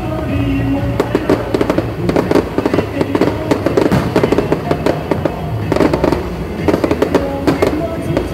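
Fireworks crackling and popping in a dense rapid run from about a second in, over music that carries a steady tune before the run starts and again near the end.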